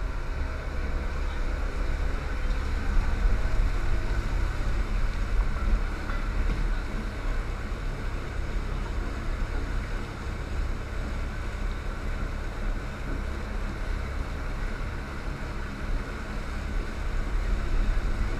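Boat's engine running steadily under way, with water rushing past and wind on the microphone.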